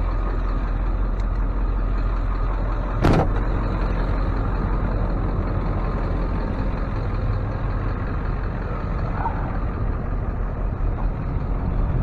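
Tow truck's engine running steadily, heard from inside the cab as a continuous low rumble, with one sharp click about three seconds in.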